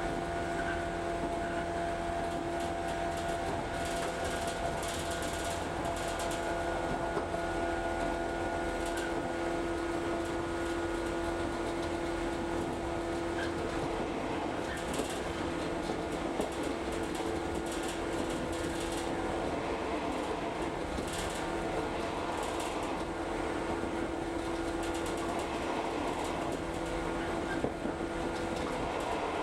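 Interior noise of a local electric train running along the line: a steady hum with low rumble, with a few faint clicks from the rails.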